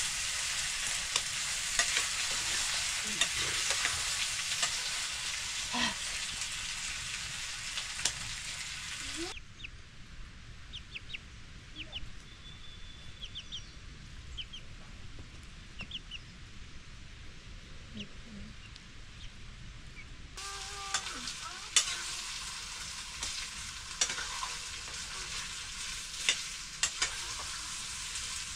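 Food sizzling and crackling as it fries in a pan, with scattered clicks of stirring. About a third of the way in the sizzle cuts off abruptly, leaving a quieter stretch with a few short high chirps, and the sizzling returns abruptly about two-thirds of the way through.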